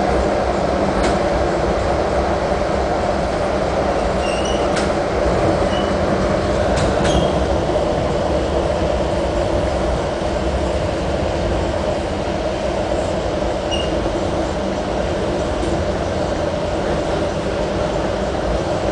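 Metra commuter train running at speed, heard from inside a passenger car: a steady rumble with a few sharp clicks and several brief high squeaks.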